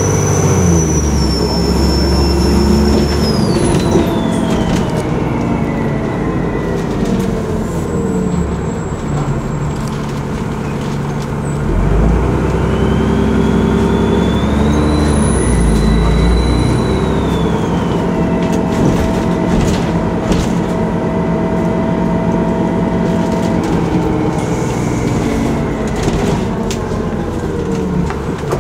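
Alexander Dennis ALX400 double-decker bus's diesel engine running with a high turbo whistle. The whistle falls away a few seconds in, then rises again near the middle as the engine pulls harder, holds for a few seconds and falls once more.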